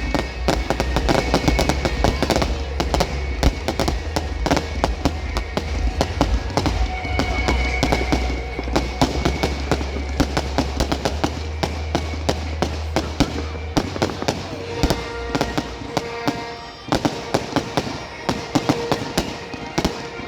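Fireworks exploding in rapid, continuous crackling bangs, over music with a steady bass line that drops away about two-thirds of the way through.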